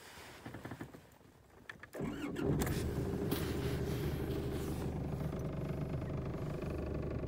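An Isuzu D-Max pickup's engine is cranked about two seconds in. It catches quickly and settles into a steady idle. Before it there are only faint clicks and rustles.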